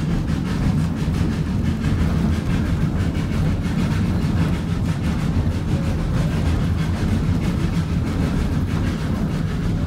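Steady low rumble of a narrow-gauge steam train in motion, a 1926 Baldwin 2-8-0 hauling six cars up a steep grade.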